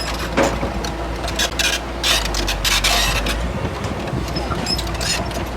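Crawler bulldozer at work: a low, steady diesel drone under repeated scraping and clattering. The drone drops away about three and a half seconds in.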